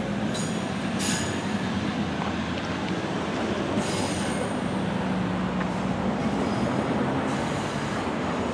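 SEPTA Silverliner IV electric multiple-unit train running over the track with a steady rumble. High wheel squeal comes in three short spells: near the start, about four seconds in, and near the end.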